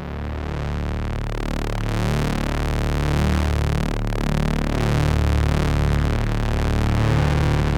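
Novation Circuit synthesizer playing a noisy, distorted drone: thick low tones under a dense, swirling wash of sweeping overtones that builds in loudness over the first couple of seconds.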